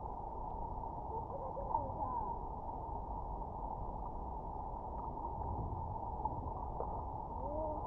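Flowing river water heard underwater, a steady muffled rush with brief, scattered chirping glides rising and falling in pitch.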